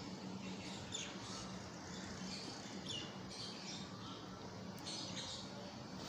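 Faint chirping of small birds in the background, short high calls every second or so, over a steady low hum.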